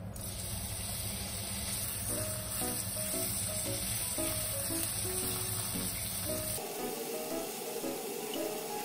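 Raw pork pieces sizzling as they drop into hot melted butter in a frying pan, a steady hiss that starts as the meat goes in. Light background music with short repeated notes plays along.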